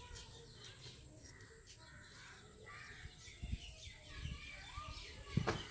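Faint bird calls, with two soft knocks, about three and a half and five and a half seconds in.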